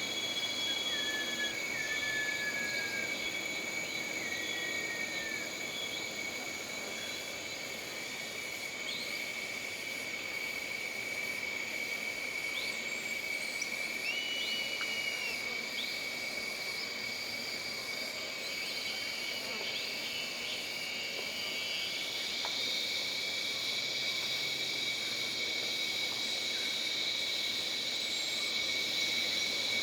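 Jungle ambience: a steady, high insect drone with scattered short whistled bird calls and chirps. About three-quarters of the way in, a second, higher insect chorus swells.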